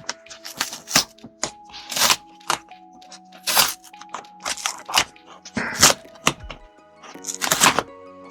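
A cardboard shipping package being handled and opened: irregular sharp cracks, rips and thunks, about a dozen over several seconds, over soft background music.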